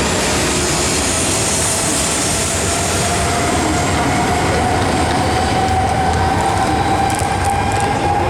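E5 series Shinkansen train accelerating out of the station: a steady loud rumble of the train running on the rails, with a whine that rises slowly in pitch as it gathers speed.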